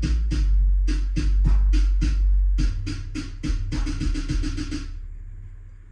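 Bass-heavy electronic music played loud through a pair of Starke Sound SW10 sealed 10-inch subwoofers: a very deep, sustained bass note under a fast run of drum-machine hits. The bass steps up in pitch partway through, then the music fades out near the end.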